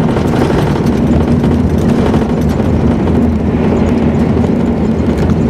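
Car engine and road noise heard from inside the cabin of a moving vehicle: a loud, steady rumble with a low engine hum.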